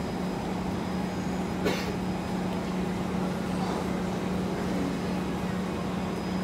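Inside a Kawasaki C151 SMRT train carriage: a steady hum at one unchanging pitch over constant noise, with one sharp click about two seconds in.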